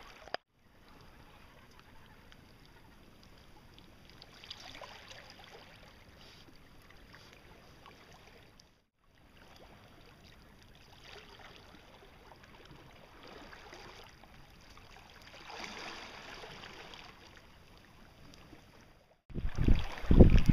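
Faint, steady outdoor ambience in a few short cut segments. About a second before the end, loud, gusty wind starts buffeting the microphone.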